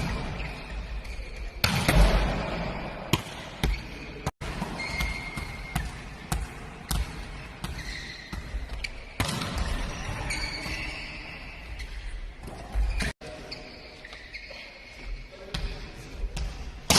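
Volleyballs being struck and bouncing off a hard indoor court, sharp slaps and thuds at irregular intervals with some echo.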